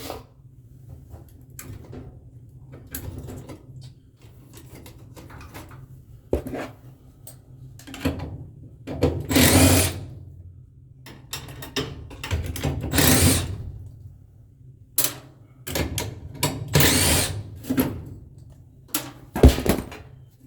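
Cordless power driver running in several short bursts of about a second each, with sharp metallic clicks and knocks between them, as work goes on at a furnace's inducer motor assembly.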